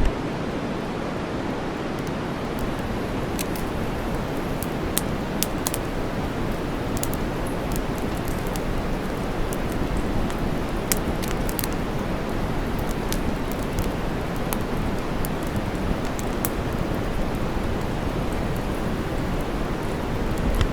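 Steady white noise, heavy in the low end, mixed with campfire crackling: scattered sharp pops and crackles of burning wood over the hiss.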